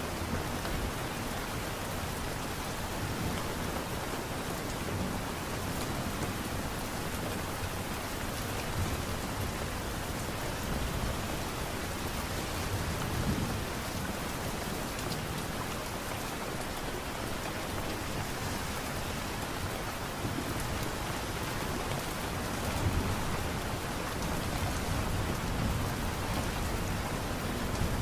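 Steady light rain: an even hiss of drops falling on a surface, with small swells now and then.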